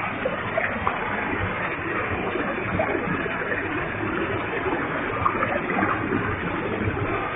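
Waterfall with a heavy flow: water falling and splashing in a steady, even rush.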